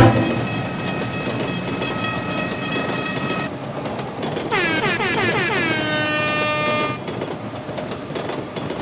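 A train horn sounds steadily over the rumble of a moving train. About four and a half seconds in, a second horn blast slides down in pitch, then holds until about seven seconds in, leaving the train's rumble alone.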